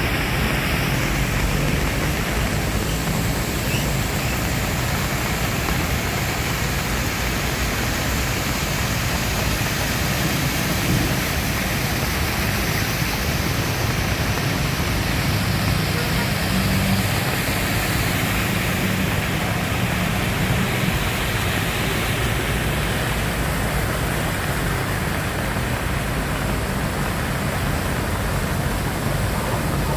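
Heavy rain pouring steadily, a dense, even hiss with no distinct strikes or rumbles.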